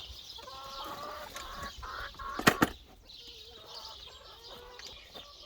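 Flock of chickens clucking and calling, with two sharp knocks in quick succession about two and a half seconds in.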